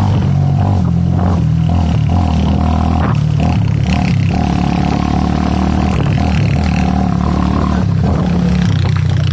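Motorcycle engine running steadily under way. Its pitch shifts in steps a few times as the revs change.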